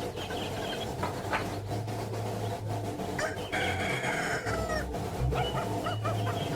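A long bird call about three seconds in, followed by a run of short repeated calls, over a steady low hum.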